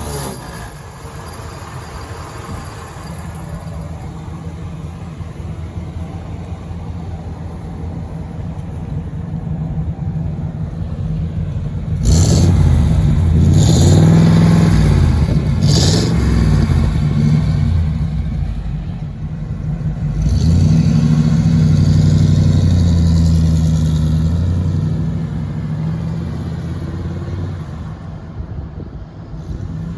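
1941 Ford Super Deluxe coupe's engine idling steadily, then revved several times about twelve seconds in and again around twenty seconds in, the pitch rising and falling with each rev before it settles back to idle.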